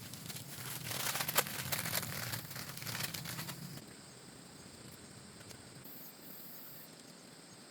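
Rustling, crinkling handling noise with dense crackles for the first three and a half seconds, then it stops. Insects, crickets among them, trill steadily after that, with a brief higher buzz near the end.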